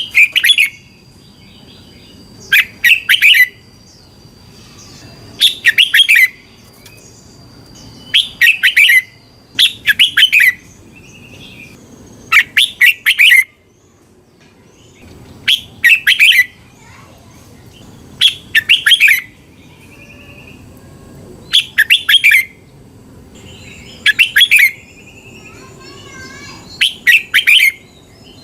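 Red-whiskered bulbul singing: short, loud phrases of quick warbled notes, repeated about every two and a half to three seconds, with fainter chirps between.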